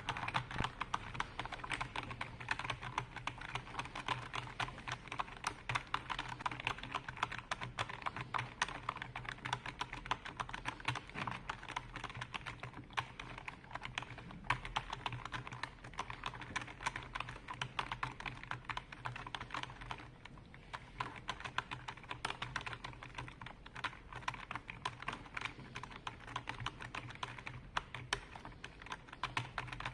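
Computer keyboard being typed on continuously, a dense run of rapid key clicks that thins out briefly about two-thirds of the way through.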